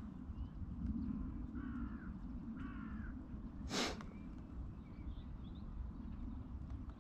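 A bird calling twice in short harsh notes, then a single sharp knock a little later, over a steady low rumble.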